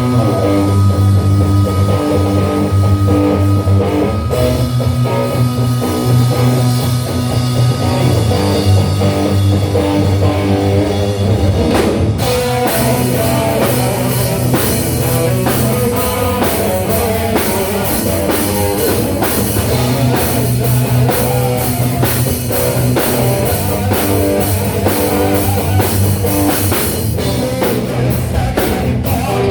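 Live rock band playing: sustained bass and guitar notes, with the full drum kit coming in about halfway through.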